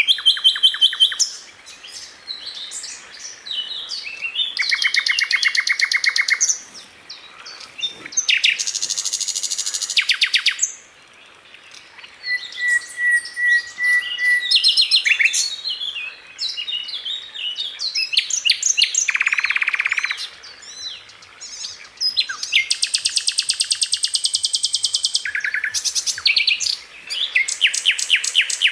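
Sikatan londo flycatcher singing: rapid, high-pitched trilled bursts, each a second or more of fast, evenly repeated notes, alternating with quick chirps and a brief steady whistle.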